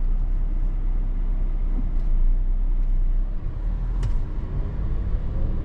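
Steady low road and engine rumble inside a moving car's cabin, with a light click about four seconds in.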